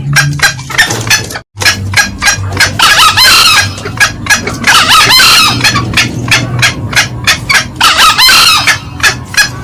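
Green junglefowl calling: a rapid run of short cackling notes, about three or four a second, with three louder, longer crows breaking in about three, five and eight seconds in. There is a brief cut-out about a second and a half in.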